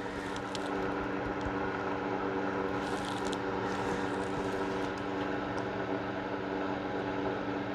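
Space heater running with a steady hum, with a few faint clicks and a brief hiss about three seconds in.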